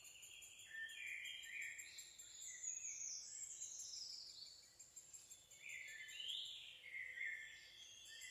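Several songbirds singing at once, their phrases overlapping, some sliding down in pitch.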